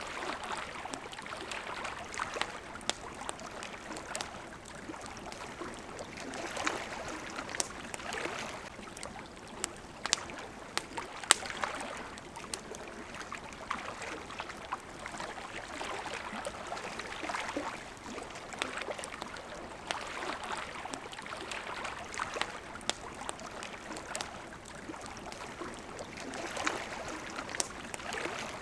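Campfire wood crackling with sharp, irregular pops, one louder pop near the middle. Underneath, water laps at a shore in soft swells every few seconds.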